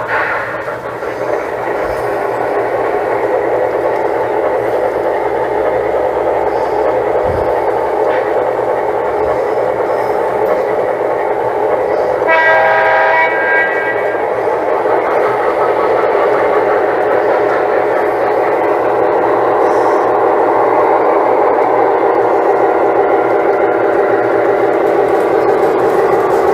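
Lionel O-gauge model train running on the layout's track with a steady loud rumble of motor, gears and wheels. About twelve seconds in it sounds one chord-like horn signal lasting about a second and a half.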